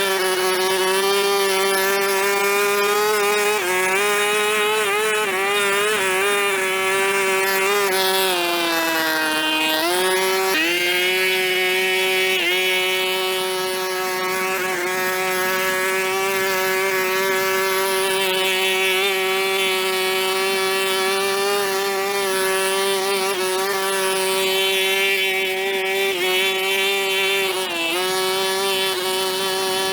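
Small gas engine of a power tool running steadily at high speed. Its pitch sags under load about a third of the way in, then recovers, and dips briefly again near the end.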